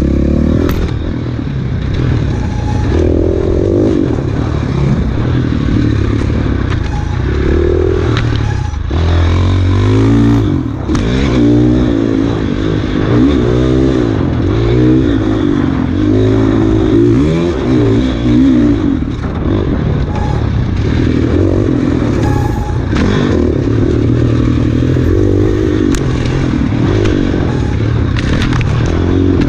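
Enduro dirt bike engine revving hard and easing off again and again, its pitch repeatedly rising and dropping as the rider works the throttle and gears through a special test. Clattering and scraping from the bike over rough ground.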